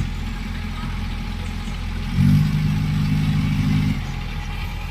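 Bulldozer's diesel engine running steadily, swelling to a louder, heavier note for about two seconds midway before settling back.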